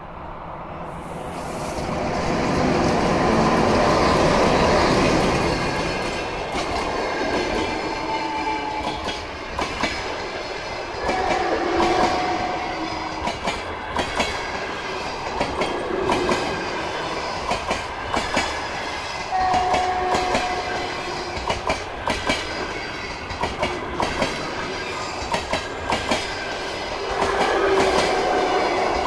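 An electric locomotive hauling a passenger train passes close by, its noise swelling over the first few seconds. Then the long line of coaches rolls past with a steady clickety-clack of wheels over rail joints, and a brief wheel whine a few times.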